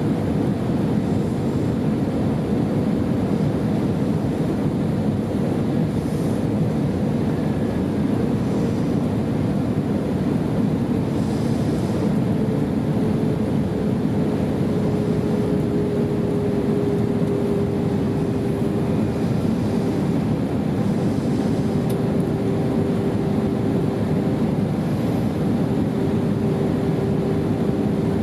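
Steady cabin noise inside an Airbus A320 in flight: the even rush of airflow and engines, with a faint tone in it that dips slightly in pitch about halfway through and then holds.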